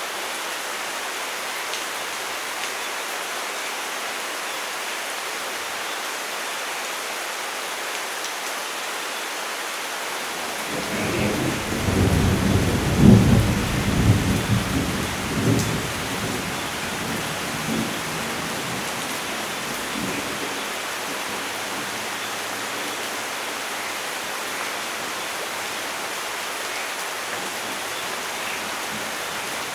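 Steady rainfall with a roll of thunder about a third of the way in that builds, peaks in a few loud low rumbles and dies away over several seconds.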